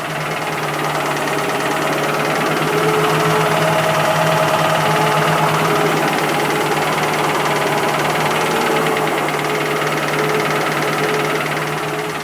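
Ford 302 small-block V8 running with a fast, even knock that follows engine speed; the owner cannot tell where the knock comes from. The engine grows a little louder about a second in and eases back near the end.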